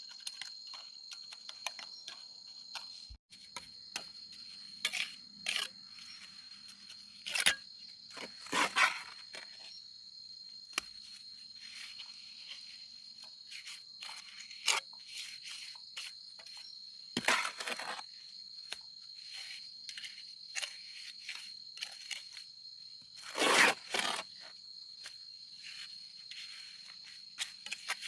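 Insects buzzing steadily at a high, even pitch, broken by frequent short clicks and knocks and a few louder scraping rustles, the loudest about two-thirds of the way in.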